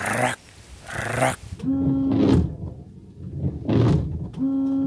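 Windscreen wiper blades sweeping across the glass, swishing, and twice juddering with a steady buzzing tone about 2.5 seconds apart: the wiper trembling and chattering on the windscreen.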